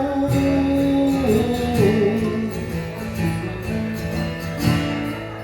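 Live singer-songwriter music: guitar playing chords between sung lines, with a held sung note dying away in the first second or so.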